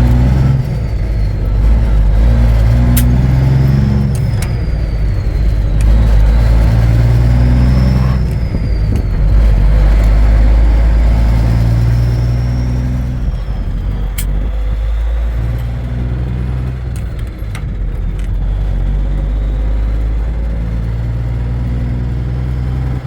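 Cummins diesel of a Peterbilt 359 truck running under load. The engine note drops away and comes back several times, and a faint high whistle rises and falls above it.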